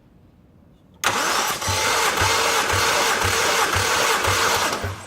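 Starter motor cranking a Toyota 1JZ-GTE twin-turbo inline-six for about four seconds, starting suddenly about a second in, with a low thump about twice a second; the engine does not fire and the cranking stops near the end.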